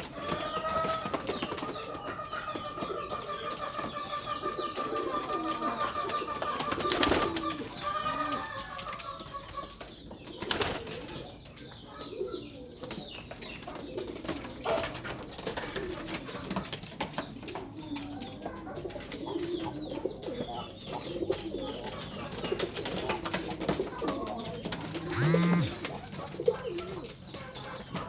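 Domestic pigeons cooing, many short low coos throughout. A high, steady trilling call runs through the first ten seconds, and there are a couple of sharp knocks.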